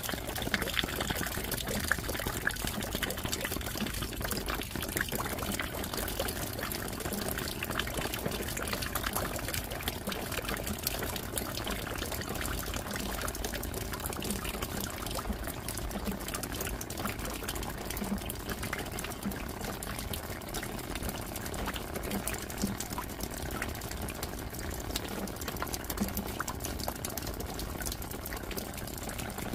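Steady rain with running, pouring water, peppered with many small drop splashes.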